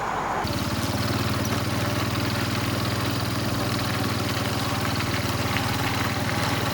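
A small engine running steadily at an even speed, cutting in abruptly about half a second in.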